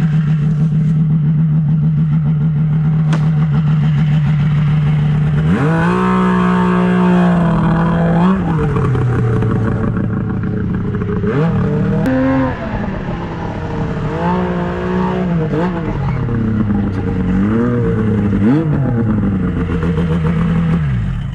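Snowmobile engine idling steadily, then revved up and down several times with the throttle, settling back to idle near the end.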